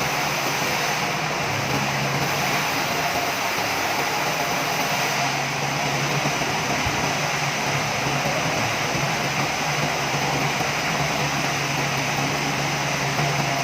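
Sawmill machinery running with a steady, loud mechanical drone that holds an even pitch and does not change.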